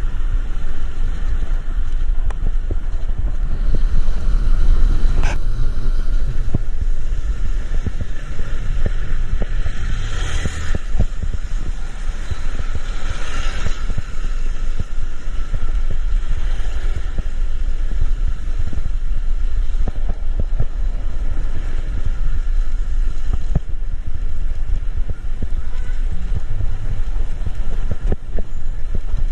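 Steady rumble of road traffic in the rain, with a hiss that swells and fades as a vehicle goes by about ten seconds in.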